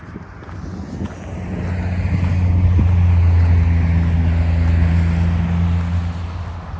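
A motor vehicle driving past: a steady low engine hum with tyre noise that grows louder, peaks midway, then fades as it moves away.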